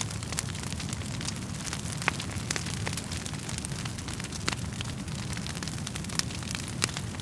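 Wood fire crackling, with irregular sharp pops and clicks over a steady low rumble of flames.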